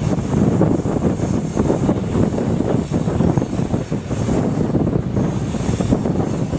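A train running along the track with a steady, dense rumble, and wind buffeting the microphone.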